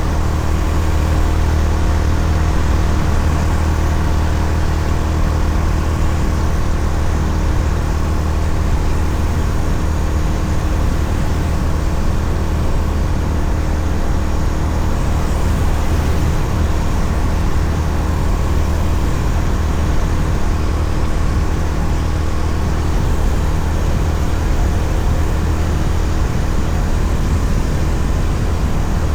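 Honda CB350RS's air-cooled single-cylinder engine running at a steady cruise, with wind and road noise, loud and unchanging throughout.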